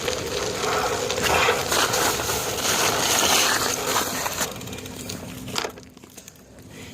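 Bicycle tyres rolling and crunching over snow, with scattered crackles. The sound is loudest in the first few seconds and fades away toward the end.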